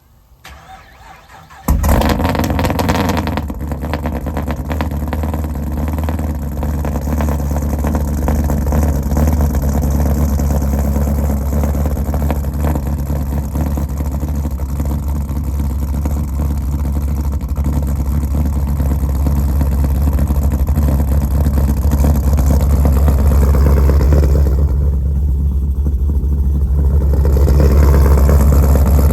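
Cold start of a 2009 Pontiac G8 GT's stroked 6.6-litre V8 with a BTR Stage 3 camshaft. The engine fires about two seconds in, then runs at a steady idle with a rapid pulsing.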